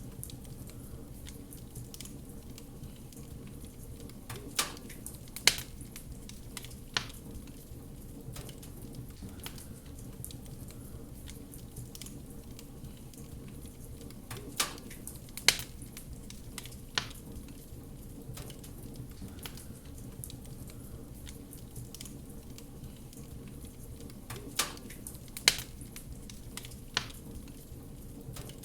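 Wood fire crackling in a fireplace: a steady low rumble of the flames with scattered small crackles. A group of three sharp, louder pops comes about every ten seconds, three times.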